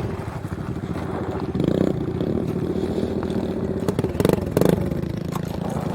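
Dirt bike engine idling with a steady beat, with a few short throttle blips.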